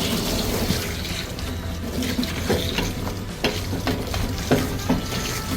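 Water running and splashing during a dog's bath, a steady hiss with a few small knocks in the second half.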